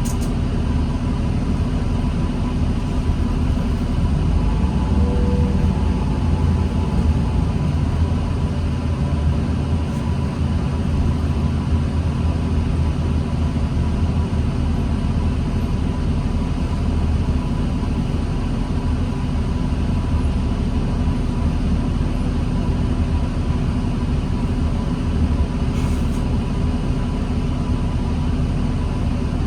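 New Flyer D40LFR diesel transit bus engine running steadily, a low drone with a thin steady whine above it.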